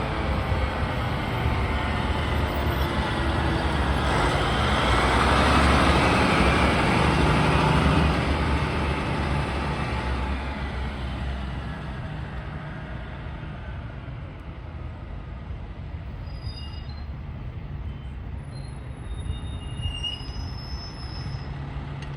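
Fire engine's diesel engine and road noise from a ride along in the truck, swelling about six to eight seconds in and then easing off as it slows. Several short, high brake squeals come in the last few seconds.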